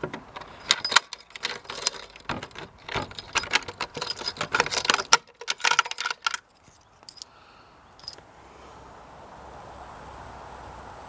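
Keys jangling and metal clicking as a bit (skeleton) key is worked in a mortise door lock to lock it, for about five seconds. Then come two faint clicks and a low steady hiss.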